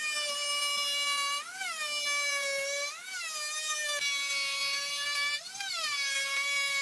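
Electric power tool motor running with a steady high whine, its pitch briefly rising and falling three times.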